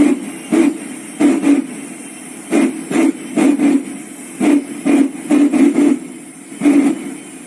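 Shockwave jet truck's three jet engines firing their afterburners in short, bass-heavy pulses. The pulses come in an uneven series, often in pairs, about a dozen in all, as the truck warms up.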